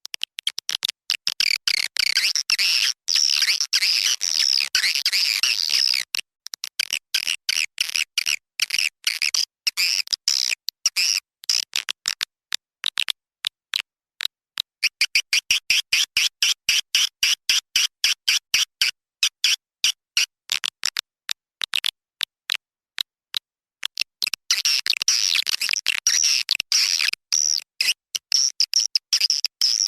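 Swiftlet call-sound recording of the kind played at swiftlet houses to lure nesting birds: rapid, high twittering chirps of swiftlets. The chirps come in dense runs separated by sparser stretches and are cut by many abrupt short silences.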